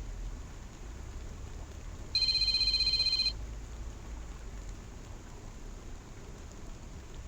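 Steady rushing of rain and falling water. About two seconds in, a loud, high electronic trilling tone sounds for about a second, then stops suddenly.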